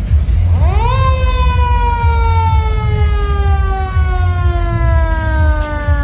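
Fire engine siren winding up quickly about half a second in, then falling slowly in pitch in one long wail, over a steady low rumble.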